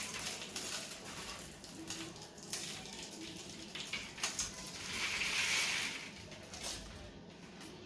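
Dry grain being sprinkled onto a paste-coated bird feeder: a soft pattering and crackle of seeds landing, with a louder rush of grain about five seconds in.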